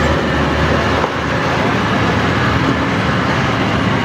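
Old Toyota diesel truck engine running steadily under a heavy limestone load, with the drone and rattle of the truck on a rough road.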